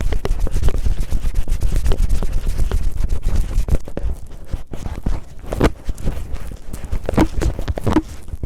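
Cellophane rubbed and crinkled right against a microphone in rough ear-cleaning style. It makes a dense crackle over a low rubbing rumble, with three louder crinkling strokes in the second half.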